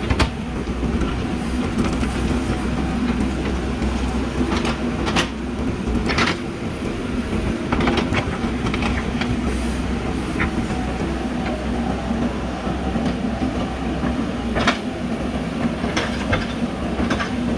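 JCB backhoe loader's diesel engine running steadily while digging, with a low rumble and several sharp knocks scattered through.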